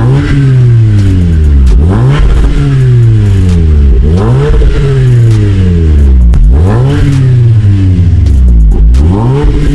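Toyota Camry 2.5's four-cylinder engine revved repeatedly through its split dual exhaust with a valve-controlled exhaust fitted. It blips about four times, the pitch rising quickly each time and falling more slowly back toward idle.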